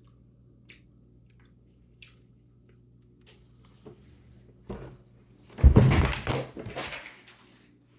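Faint chewing and small clicks, then about five and a half seconds in a loud crash lasting a second or so, as something is clumsily bumped or knocked over.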